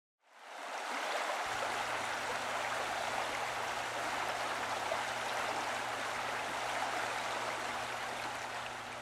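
Steady rush of running water, like a stream or spring flowing, fading in at the start. A faint low hum joins about a second and a half in.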